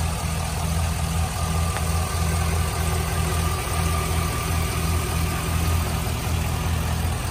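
2005 Chevrolet SSR's 6.0-litre LS2 V8 idling steadily during its cold-start warm-up, a relatively tame idle.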